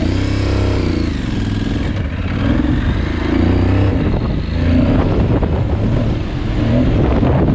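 Adventure motorcycle engine working under load over rough off-road ground, its revs rising and falling with the throttle, over a heavy low rumble.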